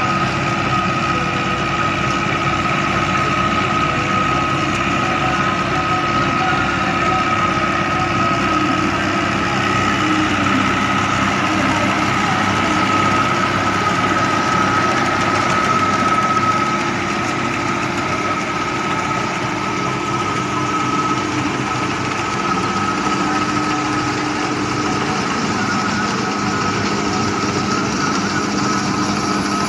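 Fiat 640 tractor's four-cylinder diesel engine running steadily, dropping slightly in loudness partway through.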